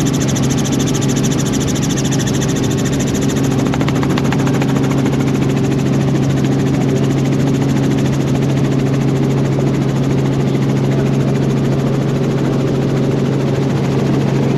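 Helicopter engine and rotors running with a steady, loud drone. A high hiss on top fades out about four seconds in.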